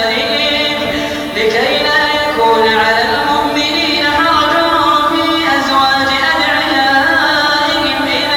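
A voice reciting the Quran in the melodic, chanted tajweed style, drawing out long held notes that bend and slide in pitch.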